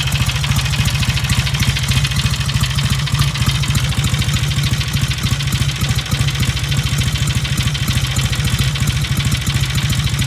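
1953 Royal Enfield Meteor's 700cc parallel-twin engine idling steadily.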